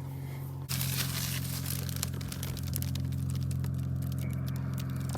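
Dry reeds rustling and crackling as they are pushed aside and handled, starting about a second in, over a steady low hum.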